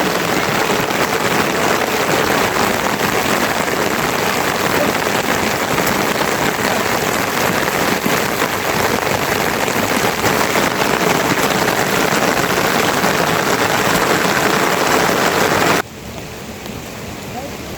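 Steady downpour of rain with dense, even hiss and patter. Near the end it cuts off abruptly to a much quieter background.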